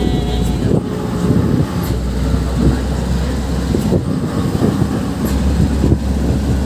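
Steady low rumble of a vehicle in motion, with irregular knocks and rattles throughout.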